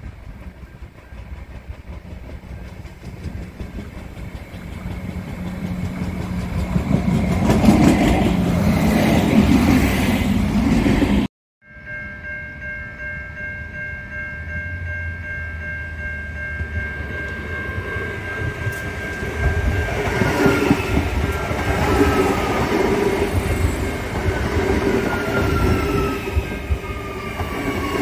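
Suburban passenger trains approaching and passing. The first train's running noise builds to a loud rumble and clatter of wheels on rails and stops abruptly about eleven seconds in. Then a level crossing's warning bells ring in steady tones as a second train approaches, with a tone falling in pitch as the train passes near the end.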